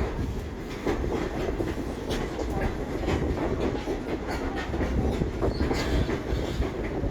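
Railroad passenger car rolling along the track: a steady low rumble with irregular clicks and knocks from the wheels over the rails.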